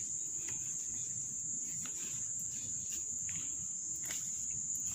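Insects, such as crickets, trilling in one steady high continuous note, with a few faint scattered clicks.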